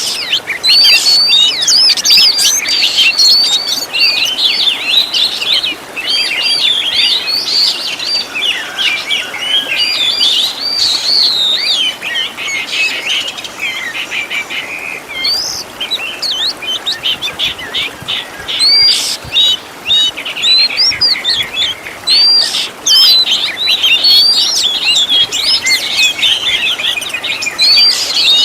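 Oriental magpie-robin (kacer) singing a fast, unbroken stream of whistled, rising-and-falling phrases, a masteran song-training recording full of 'isian' fill-in phrases; the song thins out briefly in the middle before picking up again.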